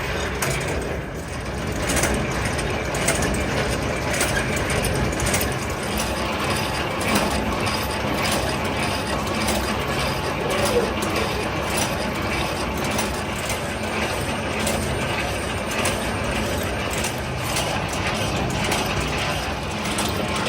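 Machine-shop machinery running, with a steady clatter of rapid ticks and rattles over a low hum.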